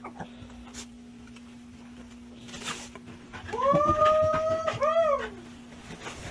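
A pet animal's long, drawn-out call that rises and is held for about a second, followed by a shorter call that rises and falls, over a steady low hum.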